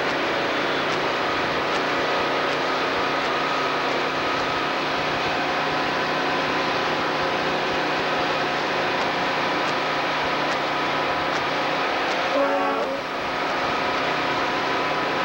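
Heavy trucks of a truck convoy driving past, engines running steadily, with a short truck horn blast about twelve seconds in.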